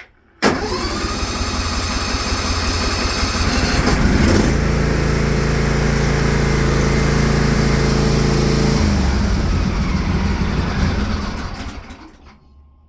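Briggs & Stratton 24 horsepower tractor engine cold-starting on its automatic choke, firing up about half a second in and running, with a steady note from about four seconds. Near nine seconds its note drops, and it dies away a little before the end: it stalls when the throttle is put down.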